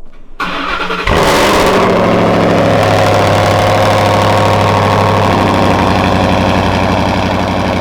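Supercharged, straight-piped Ford Raptor engine starting: a brief crank, then it fires about a second in with a short rev flare and settles into a loud, steady idle.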